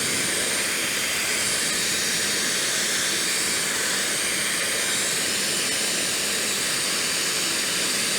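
Idoo high-speed hair dryer running steadily: an even rush of blown air with a faint high motor whine above it.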